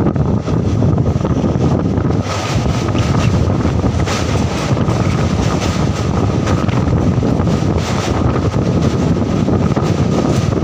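Indian Railways passenger train running at speed, a steady rumble with heavy wind on the microphone. About two seconds in it runs onto a steel truss bridge, and the sound grows brighter, with rapid clatter as the girders pass close by.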